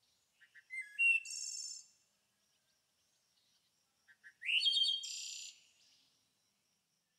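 A songbird sings two similar phrases, one about half a second in and one about four seconds in. Each phrase has a few short chirps, a rising whistle, then a high buzzy trill.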